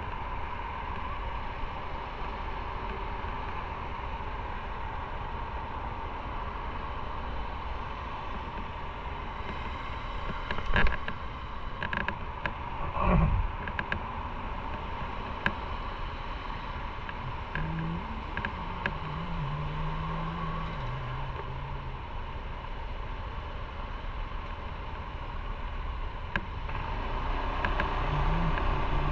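Motorcycle on the move: a steady mix of engine, wind and road noise, with a few sharp knocks about a third of the way in.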